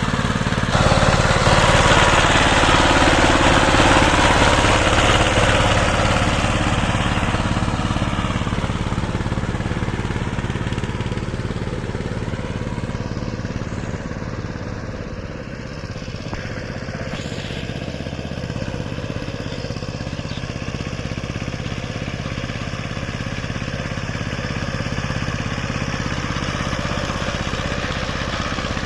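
Saiping 16 hp power tiller's single-cylinder diesel engine running with a fast steady chug, loudest over the first few seconds and a little quieter from about halfway.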